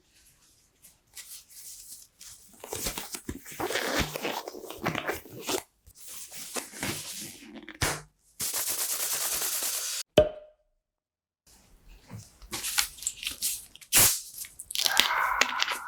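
Close-miked eating sounds from a jokbal (braised pig's trotter) mukbang: irregular crinkles, sharp clicks and a few seconds of steady rustling hiss, broken by silent gaps.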